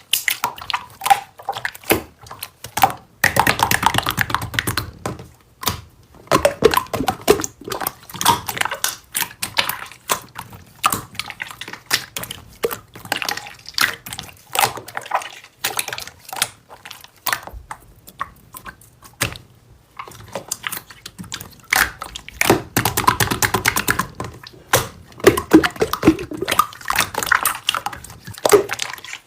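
Slime being squeezed and poked by hand, making a continuous run of sticky clicks, pops and crackles, with two denser crackling stretches, one a few seconds in and one near the end.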